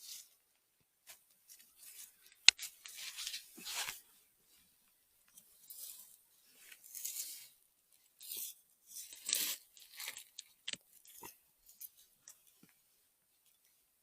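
Irregular rustling and crunching of forest-floor litter and undergrowth being disturbed, in short bursts, with a sharp snap like a breaking twig about two and a half seconds in.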